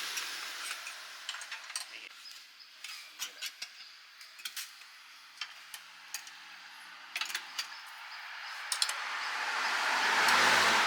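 A scatter of sharp metallic clicks and clinks, like metal utensils being handled, over a soft hiss that swells near the end.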